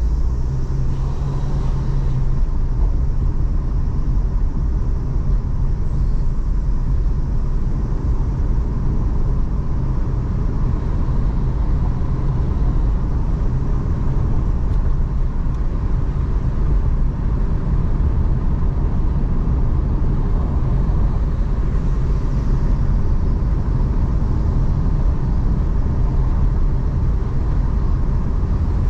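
Car driving along a road: a steady low rumble of engine and tyre noise with no change in pace.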